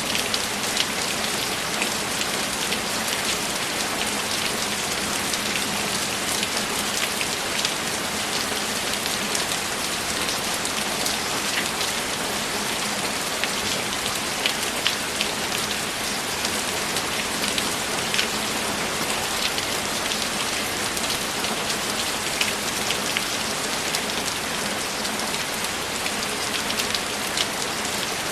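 Steady rain falling, with individual drops pattering audibly over the continuous hiss of the shower.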